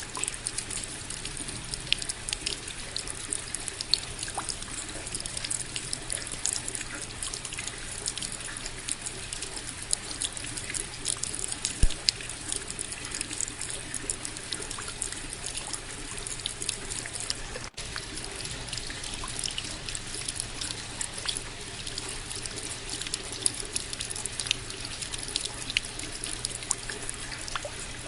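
Steady rain with many close, sharp drop impacts and drips over an even hiss of falling water. One drop about twelve seconds in is louder than the rest, and there is a split-second break a few seconds later.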